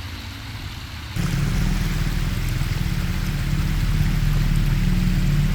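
Polaris RS1 1000 side-by-side engine running low, then about a second in it suddenly gets louder and holds a steady pull under throttle, climbing gradually louder as the machine crawls up a slick waterfall.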